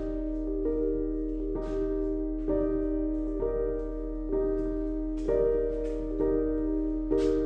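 Background piano music, slow and gentle, with sustained chords changing about once a second.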